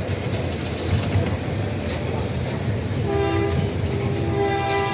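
Amusement-park miniature train running with a low rumble, then about three seconds in it sounds a steady two-note horn that holds to the end.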